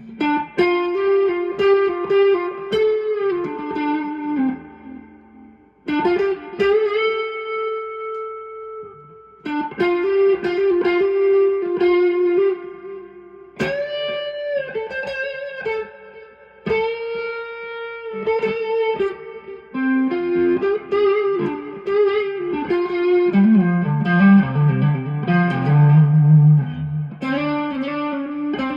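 Electric guitar, a Stratocaster through a Two-Rock tube amp, with mild overdrive from a Bluesbreaker-style pedal stacked into a TS10 Tube Screamer, plus delay and reverb. It plays bluesy single-note lead phrases with held, vibrato'd notes and short pauses between phrases, and drops into a lower run near the end.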